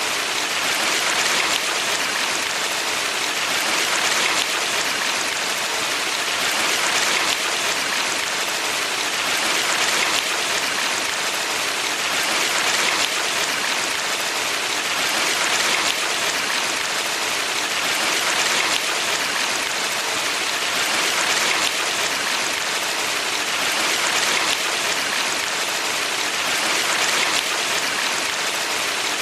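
Valley stream water rushing steadily, an even splashing hiss that swells gently every few seconds.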